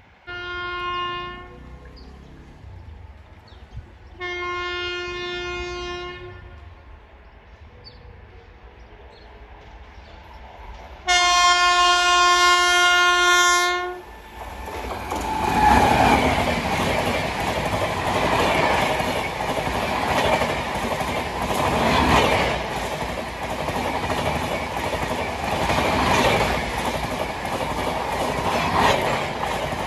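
Indian Railways electric locomotive sounding its horn three times as it approaches: two shorter blasts, then a longer and louder one. It then rushes past at speed hauling red LHB coaches, with steady rail noise and rhythmic clickety-clack of wheels over the rail joints.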